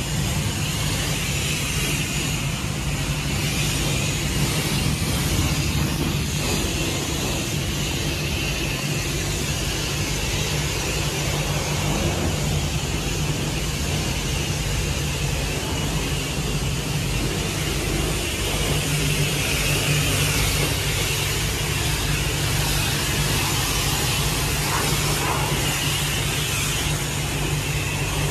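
High-pressure car-wash wand spraying water in a steady hiss, over the constant hum of the wash bay's pump.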